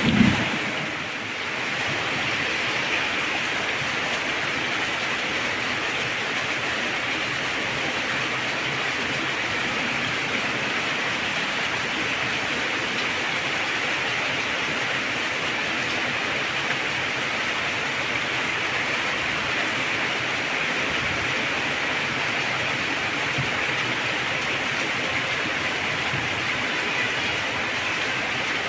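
Heavy rain falling in a steady, unbroken hiss. A brief low burst right at the start, likely the tail of a thunderclap.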